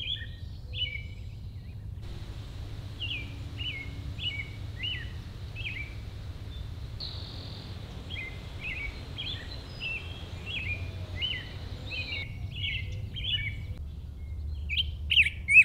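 Songbirds singing: a steady string of short, quick chirping notes over a low outdoor rumble, the song growing louder near the end.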